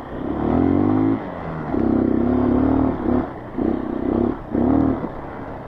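Honda CRF230 dirt bike's single-cylinder four-stroke engine revving in about four throttle bursts, its pitch rising and falling with each. The longest bursts come right at the start and from about two to three seconds in.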